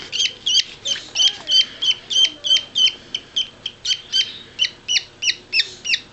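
Parakeet (budgerigar) chick crying for food: short, high, rising-and-falling cheeps repeated steadily at about three a second, the begging call that says "more".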